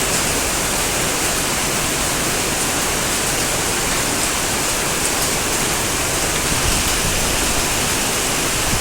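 A steady, loud rushing hiss of water that runs on without a break.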